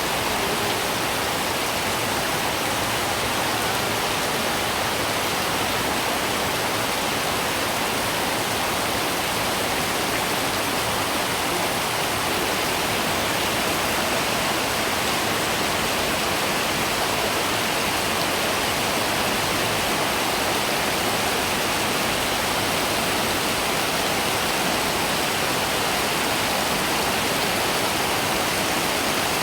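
Heavy rain pouring down in a steady downpour, an even rushing hiss.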